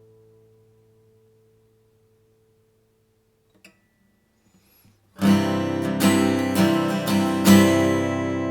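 Acoustic guitar: a chord rings on and slowly dies away, a few faint string and finger noises follow, then about five seconds in strummed chords start loudly, with several more strokes over the next two seconds.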